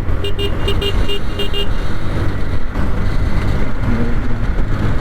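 A rapid run of about eight short horn beeps in the first second and a half, over the steady low rumble of riding in traffic on a motorcycle.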